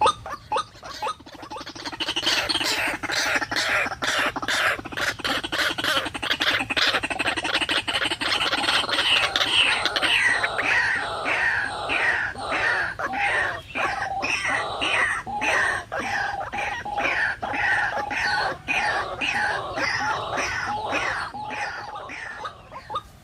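White-breasted waterhen calling: a long, loud chorus of rapidly repeated harsh notes that swells in about a second in, over a lower pulsing croak, with falling notes repeating about twice a second through the second half.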